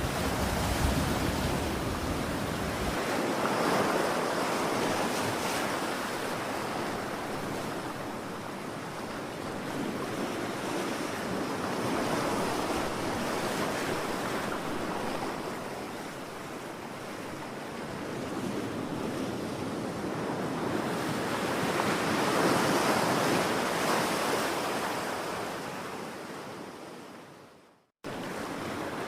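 Ocean surf washing on a shore: a steady rush of breaking waves that swells and eases every several seconds. Near the end it fades out to silence and cuts back in abruptly, as at a loop or edit point.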